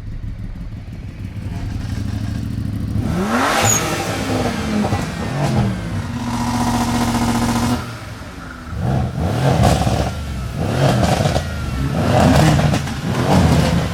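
Car engine being revved hard while stationary. It climbs in pitch several times, holds a steady high rev for about two seconds, drops, then gives a quick run of throttle blips near the end.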